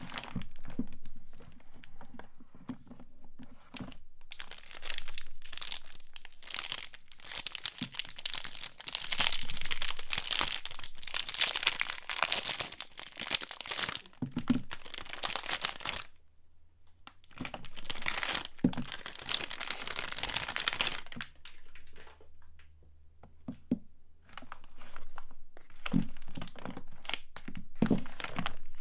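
Soap packaging being unwrapped by hand: wrappers crinkled and torn open in several long stretches of dense crackling, the longest lasting about ten seconds, with short pauses and a few soft knocks between them.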